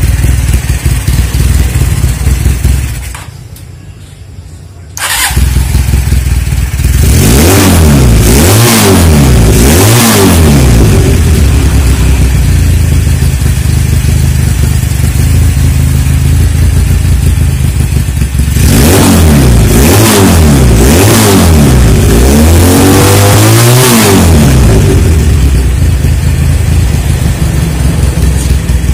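A Tiger motorcycle's 400cc parallel-twin engine idling. It cuts out about three seconds in, is started again about two seconds later, and is then blipped through two series of rising and falling revs, about three near the start and five or so later on, settling back to idle between them.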